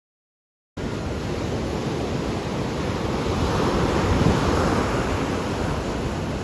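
Ocean surf: waves washing in as a steady rush of noise that swells to a peak about four seconds in. The sound cuts in abruptly after a moment of dead silence.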